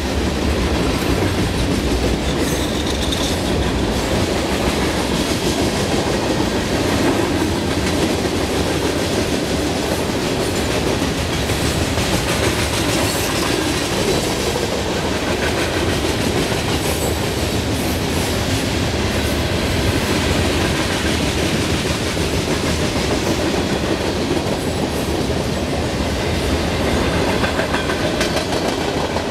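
Freight train passing close by: a steady rumble with the clickety-clack of steel wheels over the rail joints as covered hoppers, double-stack container cars and boxcars roll past.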